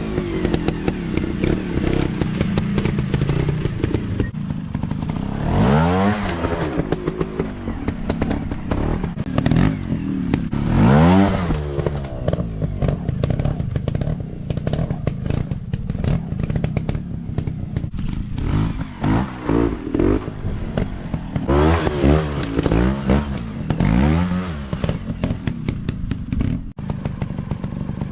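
150 cc dirt bike engines revving hard, the pitch rising and falling again several times as the throttle is opened and shut, with the engine drone between.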